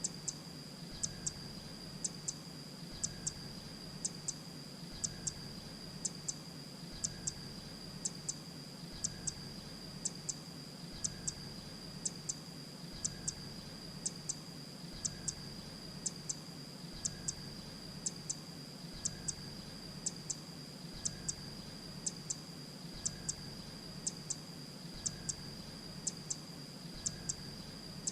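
Grey-breasted prinia calling: short, very high chips in clusters of two or three, repeated evenly about once a second, over a steady high-pitched whine.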